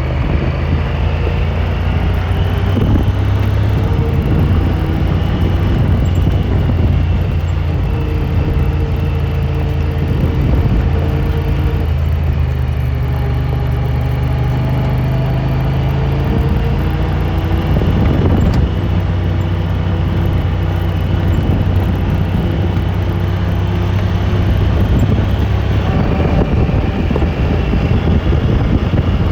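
Side-by-side UTV engine running while riding, its pitch rising and falling with speed.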